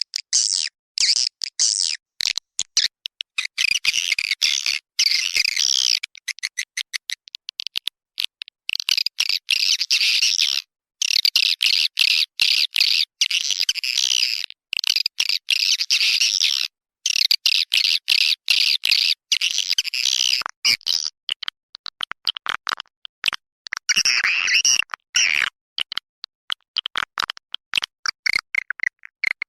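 Recorded swiftlet calls: dense, rapid, high-pitched twittering chatter in clusters, broken again and again by abrupt silent gaps. It is a swiftlet lure call track, the kind played to draw swiftlets into a nesting house.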